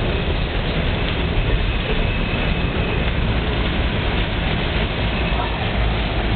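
Coal hopper cars of a Union Pacific freight train rolling past: a steady, loud rumble of steel wheels on the rails.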